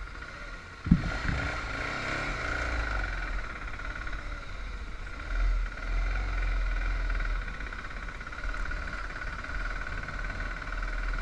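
Motorcycle engine running steadily while riding, after a sharp thump about a second in.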